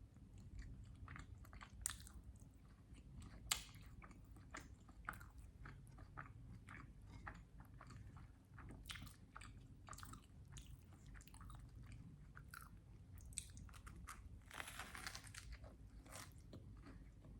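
A person chewing and biting a sandwich with syrup, close to the microphone: a scatter of short mouth clicks and smacks, two sharper ones in the first few seconds, and a longer smacking stretch about fifteen seconds in.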